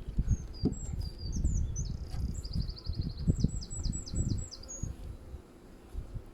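A small songbird sings one phrase of high notes: some varied notes, then a fast trill, then a run of slower down-sliding notes that ends about five seconds in. Under it, honeybees buzz around an open hive.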